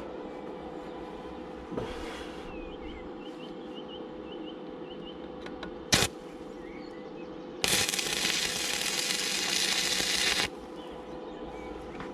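Arc welder crackling evenly for about three seconds as a short weld bead is run on steel flat bar, after a single sharp tap a couple of seconds earlier.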